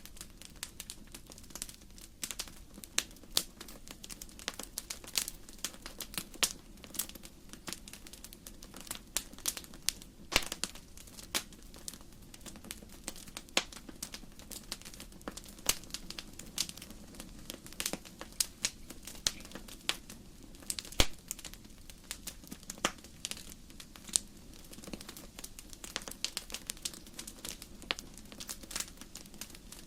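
Wood burning in a fireplace, crackling with irregular sharp pops and snaps over a steady low rumble.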